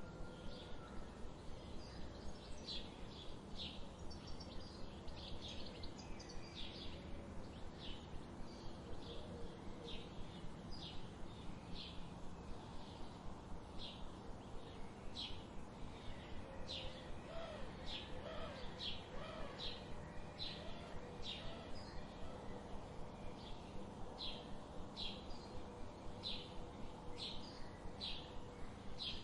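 Wild songbirds chipping: a long run of short, sharp, high chip notes repeated every second or so, with a few softer, lower calls a little past the middle, over a steady outdoor hiss.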